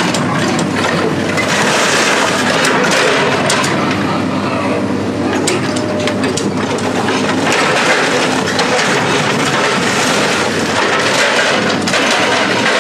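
Heavy machine's engine running steadily, with frequent sharp cracks and clanks of scrap metal being crushed and handled.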